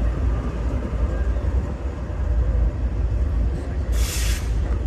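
Steady low rumble of a freight train rolling past, with a short sharp hiss of air a little before the end.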